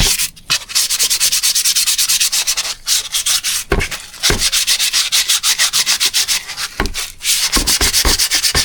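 1200-grit abrasive paper rubbed quickly back and forth by hand over the side of an engine piston, a fast, even scraping rhythm with a few short breaks.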